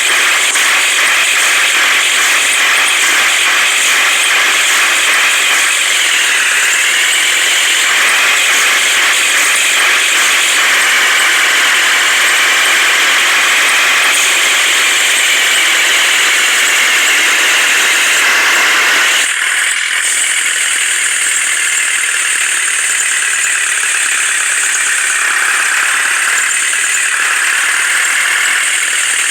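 Heavy vehicle engine running steadily with a high, wavering squeal-like whine over it. About two-thirds of the way in, the sound changes abruptly and becomes thinner and slightly quieter.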